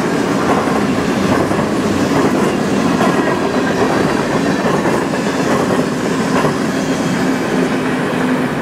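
Covered hopper cars of a freight train rolling past on steel wheels: a loud, steady rush of wheel-on-rail noise with occasional clicks. It eases slightly near the end as the last car goes by.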